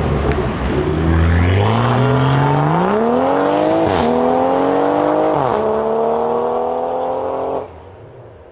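BMW M340i's 3.0-litre turbocharged straight-six, fitted with a custom downpipe and midpipe, accelerating hard. The engine note climbs, drops sharply with two quick upshifts, with a sharp crack at the first, climbs again, then falls away abruptly near the end.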